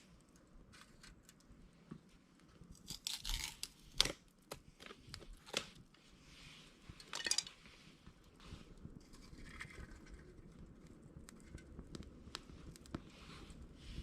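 Scattered crunching and rustling with a few sharp cracks, from a small fire burning in an empty can.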